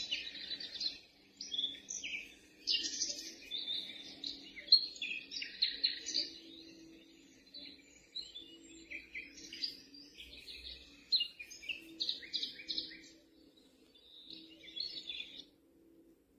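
Recorded birdsong, many quick chirps and trills, played through the small speaker of a Dreamegg Pocket Sleep mini sleep-sound machine over a faint low hum. The birdsong stops about a second before the end.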